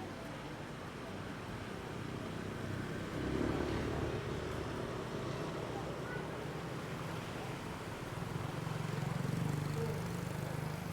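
Motor vehicle engines running in the street, swelling twice as vehicles pass, over general street noise.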